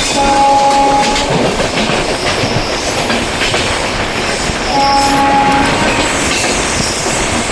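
Express train hauled by an electric locomotive, running with a steady rumble and rail clatter. Over it come two short horn blasts, each about a second long, about four and a half seconds apart.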